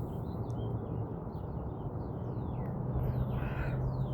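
Wild birds calling: a run of short falling chirps, with a harsh caw about three seconds in. Under them runs a steady low hum.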